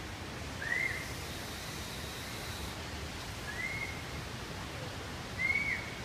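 A bird whistling three short calls, each a quick note that rises and falls back, about two seconds apart, over a steady rushing noise.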